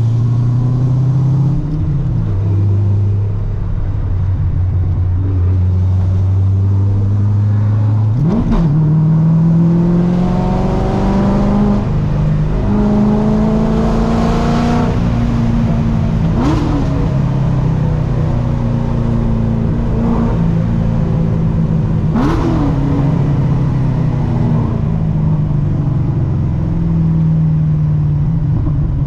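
Supercharged LS3 V8 of a ProCharger-equipped Corvette C6 driving. It runs low and steady at first, then about eight seconds in a quick blip is followed by a long rising pull as it accelerates, with a few short sharp cracks along the way before it settles back.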